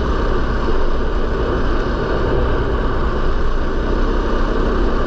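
450cc single-cylinder four-stroke dirt bike engine running steadily under way on a trail ride.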